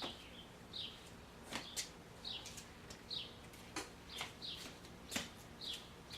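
A small bird chirping over and over, short high chirps about once a second, with a few sharp clicks in between, the loudest about five seconds in.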